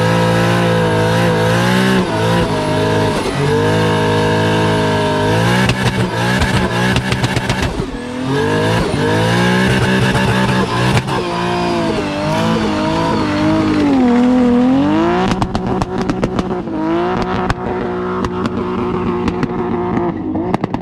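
Nissan S15 drift car's engine held at high revs through a long drift, the note dipping and climbing back several times, with tire squeal under it. A run of sharp crackles comes in the last few seconds.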